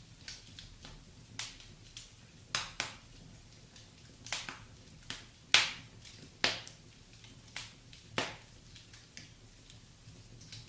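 Wood fire crackling, with irregular sharp pops and snaps at uneven intervals, the loudest about halfway through.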